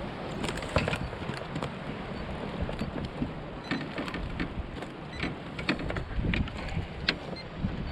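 Wind buffeting the microphone on a kayak, with scattered small clicks and knocks from handling on board.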